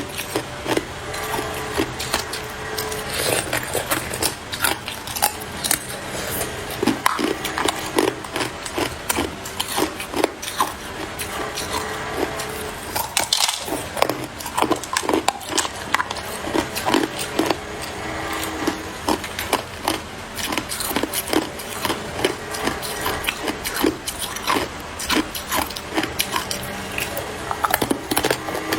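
A person biting and chewing hard ice: a continuous run of sharp crunches and cracks, with a brief pause about thirteen seconds in.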